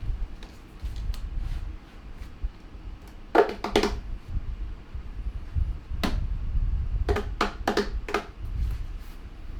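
Packaging being handled during an unboxing: a low handling rumble with two bursts of sharp crinkling and clicking, one about three and a half seconds in and a longer run from about six to eight seconds.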